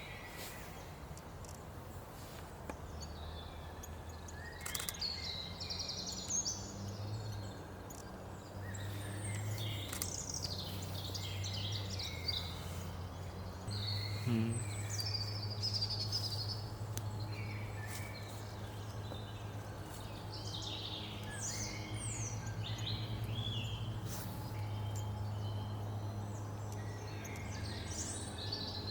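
Small woodland songbirds chirping and calling in short, high bursts, several at a time, over a steady low hum.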